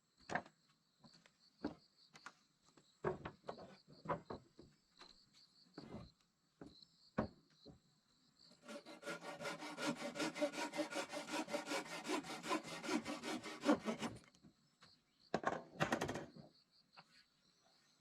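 Wood being worked by hand: scattered knocks and scrapes, then about five seconds of rapid back-and-forth rasping strokes on wood from about nine seconds in, with a shorter burst near the end.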